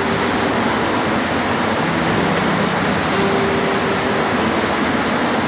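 Steady rain falling, an even hiss with no let-up, with a faint low hum that comes in twice.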